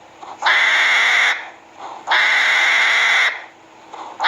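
Hedgehog sound clip: the same harsh, noisy burst of about a second, repeated about every 1.7 seconds.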